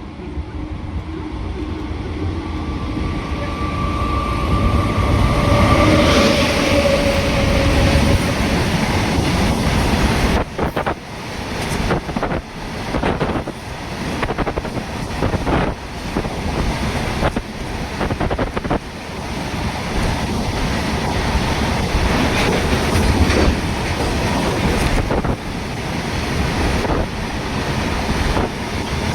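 Indian Railways train approaching, a long horn blast held for the first several seconds as the sound builds. The train then passes close, with fast, repeated clatter of its wheels over the rail joints.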